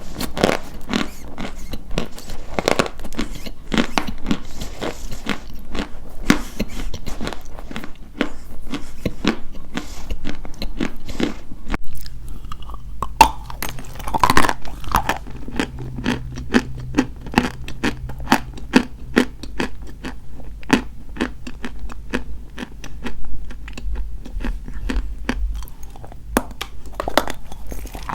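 Dry white chalk being bitten and chewed: rapid, crisp crunches, with a brief lull about twelve seconds in.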